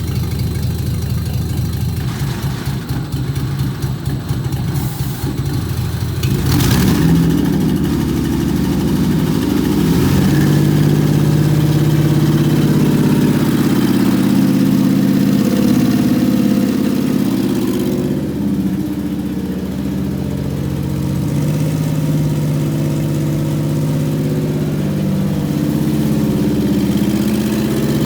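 Toyota 1MZ 3.0-litre V6, a used engine on a test stand, turning over on the starter with an even rhythm for about six seconds, then catching and running with its speed rising and falling a little. This is the engine's first start, a check that it runs.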